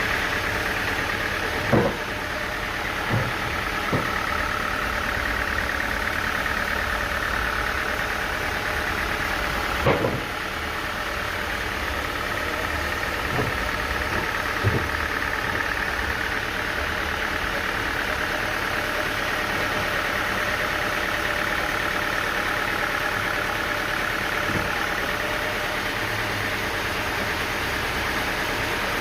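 A sawmill's engine running steadily, with a few short knocks and clunks scattered through, the clearest about two seconds in and about ten seconds in.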